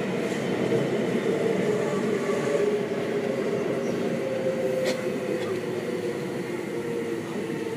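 Seibu 6000 series Hitachi GTO-VVVF train heard from inside the car, its traction motors and inverter whining under the running noise of wheels on rail. The whine slowly falls in pitch, as the train slows under braking towards a station. A single sharp click comes about five seconds in.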